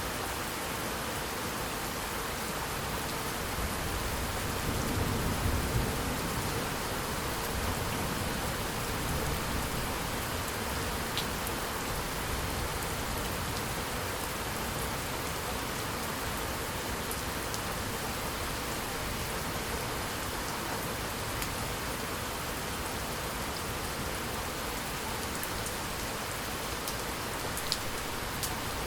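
Steady heavy rain falling on surfaces, with a low rumble of distant thunder swelling and fading around five seconds in, and a few sharp drop clicks.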